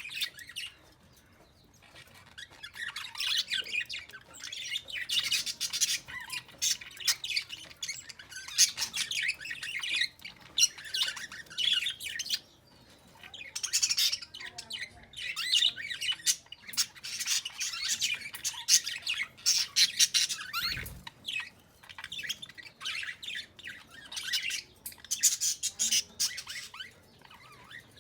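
Bird calling in repeated bursts of rapid, harsh chirps, each run lasting a second or more, with short pauses between.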